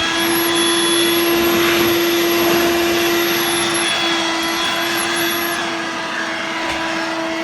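Dirt Devil Vibe corded stick vacuum, used as a handheld, running steadily: a constant motor hum over rushing air.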